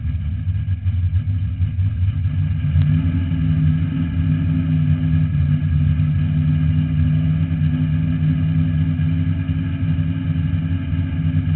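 Drag-race car's engine running at steady low revs, heard from inside the cabin.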